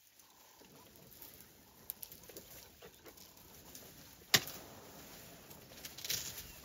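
Quiet outdoor ambience with faint rustling and a faint thin tone early on. A single sharp click a little past four seconds in is the loudest event.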